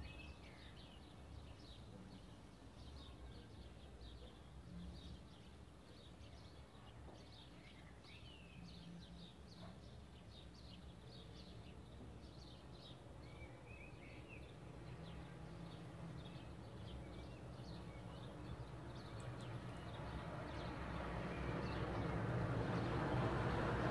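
Small birds chirping: many short, quick calls repeating over a steady low rumble. Over the last few seconds a broad rushing noise grows steadily louder.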